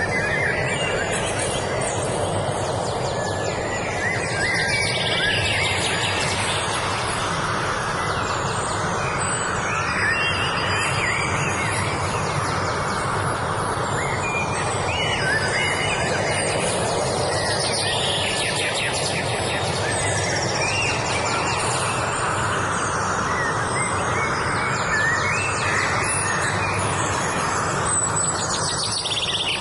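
Several songbirds chirping and singing on and off over a steady, even background noise.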